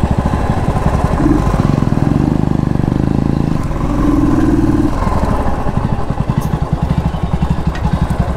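Motorcycle engine running at low revs, its exhaust beating in a steady rapid pulse, with a brief held tone about four seconds in.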